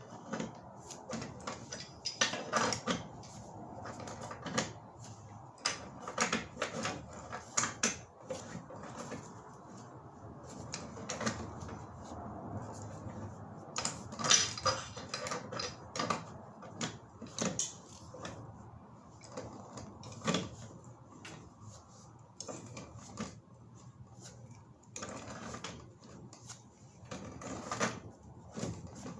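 Irregular knocks and metallic clinks of black iron gas pipe and fittings being handled, coming at uneven intervals with a few louder clanks.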